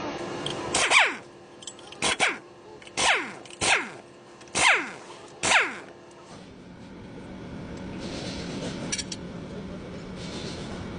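A dog barking: about seven short barks, each dropping in pitch, over the first six seconds, then stopping, leaving a steady low hum.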